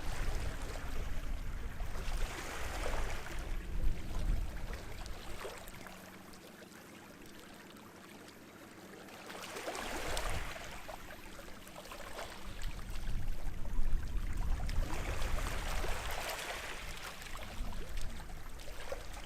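Sea waves washing onto the shore in three surges several seconds apart, with a quiet lull between the first two and a low rumble under most of it.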